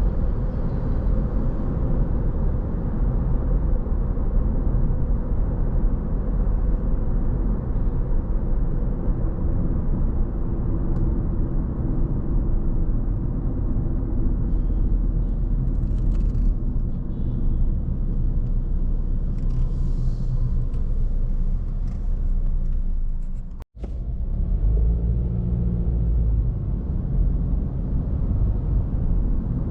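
Steady low rumble of a car on the move: road and engine noise. It drops out for an instant about three-quarters of the way through, then carries on.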